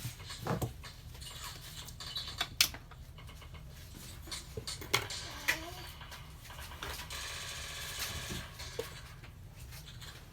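Scattered small clicks and taps of tools and phone parts being handled during a smartphone repair, over a steady low hum.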